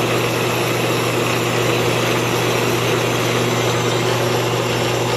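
Rong Fu RF-31N2F mill-drill running steadily under its 1.5 hp motor, with the power down feed engaged and driving the spindle quill downward. An even, constant hum with no change in speed.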